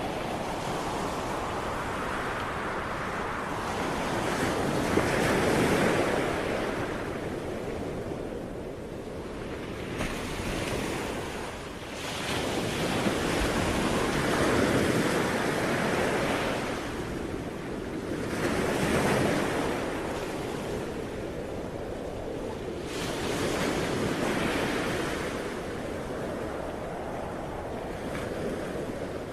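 Ocean waves breaking and washing on the shore, a steady surf that swells and recedes every few seconds, with wind noise on the microphone.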